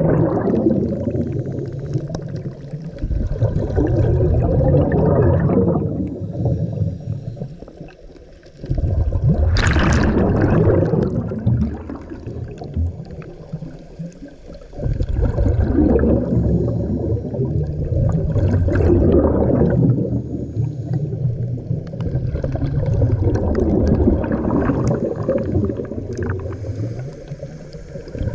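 Scuba diver breathing through a regulator underwater: long exhalations of bubbles lasting several seconds each, broken by quieter pauses to breathe in, one about eight seconds in and a longer one from about twelve to fourteen seconds in.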